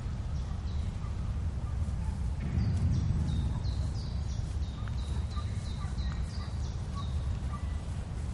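Bird chirping: a run of short, high notes that slide downward, about two or three a second, starting about two and a half seconds in over a steady low rumble.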